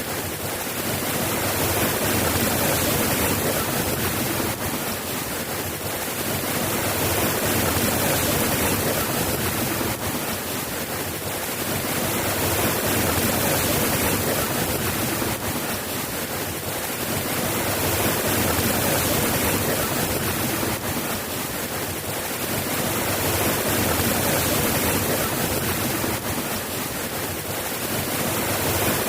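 Steady rainfall, a dense even hiss that swells and eases gently about every five seconds.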